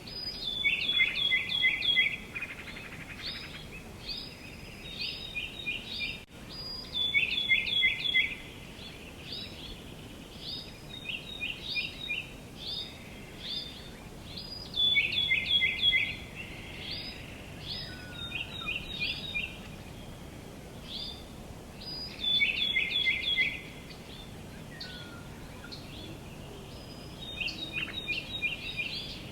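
A songbird singing loud, repeated short phrases, each a quick run of three to five high down-slurred notes, every second or two with brief pauses, over a steady faint outdoor hiss.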